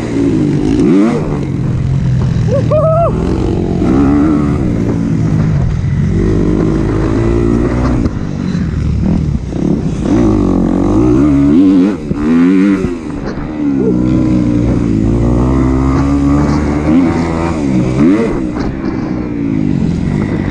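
A four-stroke 250 motocross bike's single-cylinder engine revving hard and backing off again and again as it is ridden round a dirt track. Its pitch climbs and drops every second or two with the gear changes, over a low rush of wind.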